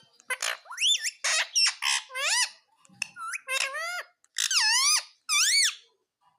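Rose-ringed (ring-necked) parakeet calling: a quick run of about ten high, squeaky calls, each swooping up and down in pitch, stopping shortly before the end.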